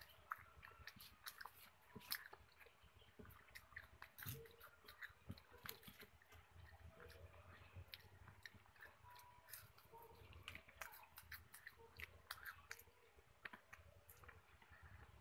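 Quiet, close-up chewing and biting of fried food eaten by hand (fried calamari, pork and fish with rice), with many irregular sharp mouth clicks.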